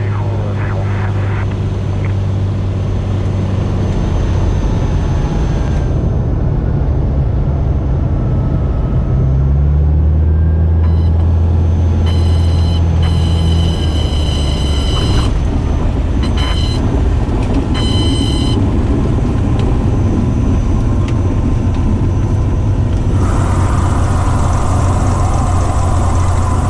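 Cabin sound of a Cessna 210K's six-cylinder engine and propeller at reduced power on final approach and landing, its steady drone dropping in pitch about a third of the way in. About halfway through, a high warning tone sounds in several short bursts, typical of the stall warning horn in the landing flare. Near the end, more hiss and rush joins the engine.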